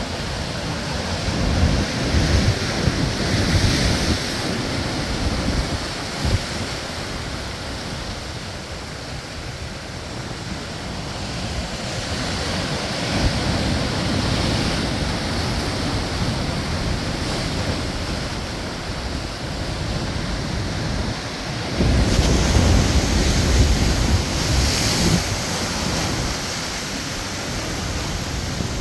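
Sea waves surging and breaking on the shore as a continuous wash that swells in surges, the loudest about three-quarters of the way through, with wind rumbling on the microphone.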